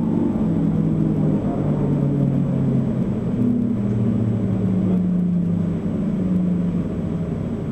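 SNCF Z 6400 electric commuter train running, heard from inside the carriage: a steady rumble of wheels on rail with low motor tones that slowly shift in pitch.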